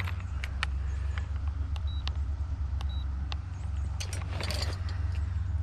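Steady low wind rumble buffeting the microphone, with scattered sharp clicks of handling and a short rustling burst about four seconds in.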